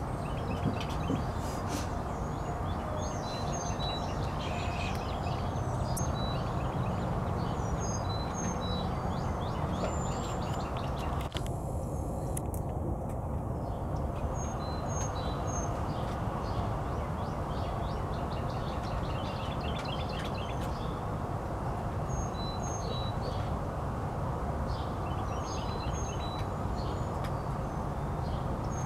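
Outdoor backyard ambience: small birds chirping in many short, high calls over a steady low rumble of background noise.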